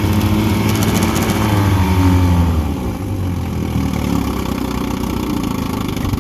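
1959 Evinrude Sportwin 10 hp outboard, a two-cylinder two-stroke, running in reverse gear. It is throttled back about two and a half seconds in and settles to a lower, steady idle.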